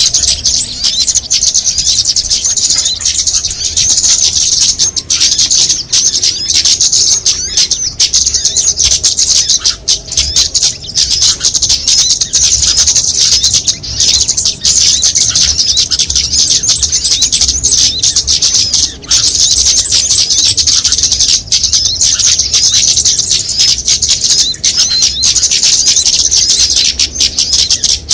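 A dense, unbroken chorus of high-pitched chirps and trills from many small songbirds, mixed together as a bird-lure recording. A low rumble runs underneath.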